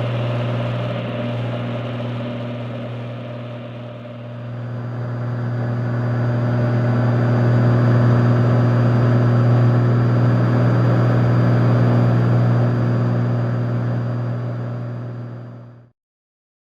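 Cessna 182's piston engine and propeller running at high power in the climb, a steady drone that dips a few seconds in and swells again, then cuts off abruptly near the end.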